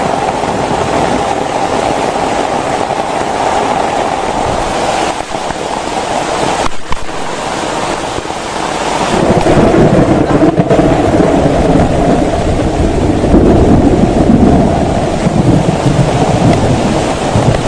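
Heavy rain falling steadily in a thunderstorm. About halfway through, a louder, deeper rumble joins the rain and continues.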